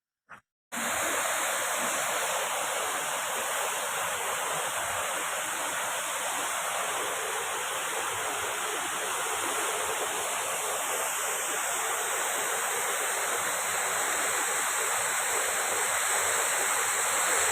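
Waterfall rushing: a steady, even noise of falling water that starts abruptly under a second in, after near silence broken by a faint click.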